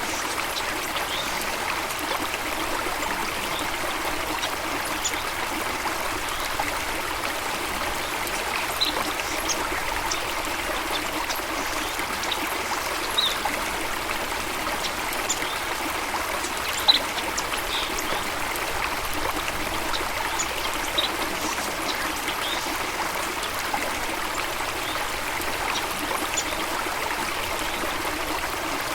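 Steady rushing and trickling of a stream or small waterfall, with short, high bird chirps here and there.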